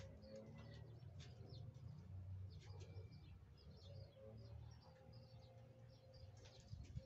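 Faint, scattered bird chirps over a low background rumble; otherwise near silence.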